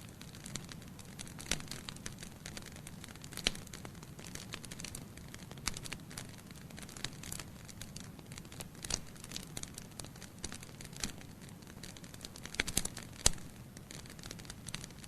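Wood fire burning in a fireplace, with a steady low hiss and irregular crackles and pops from the burning logs; the sharpest pops come about three seconds in and again near the end.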